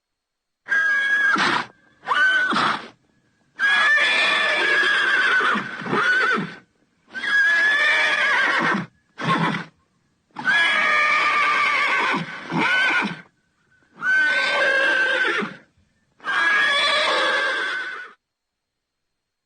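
Horse neighing, a string of about eight separate whinnies, each a wavering high call one to two seconds long, cut apart by complete silence.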